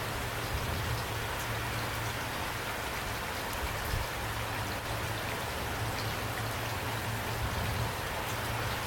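Steady rain falling on a surface, with individual drops pattering throughout and a low rumble underneath.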